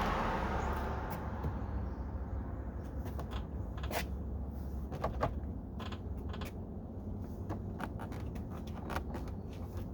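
Plastic door trim panel creaking and clicking as it is pried and pulled at its retaining clips, with scattered sharp clicks over a steady low hum. A rushing noise fades out during the first second.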